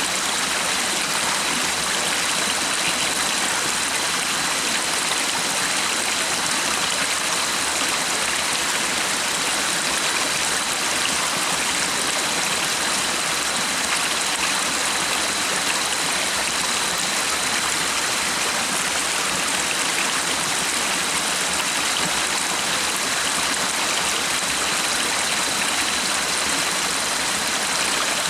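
Stream water running steadily, an even rushing hiss with no breaks, and a thin steady high tone above it.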